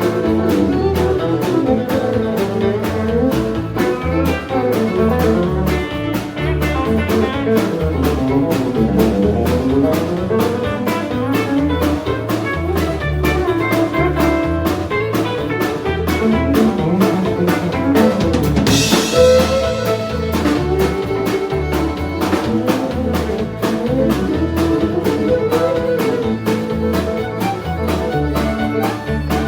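Live country band playing an instrumental break: drums keep a steady beat under a winding lead solo, with a cymbal crash about two-thirds of the way through.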